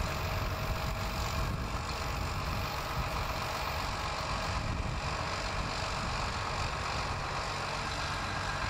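Case IH MX245 tractor's diesel engine idling steadily, a low even rumble.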